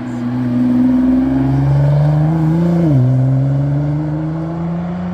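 Historic competition car's engine accelerating hard, its pitch climbing steadily, then dropping sharply on an upshift about three seconds in before climbing again.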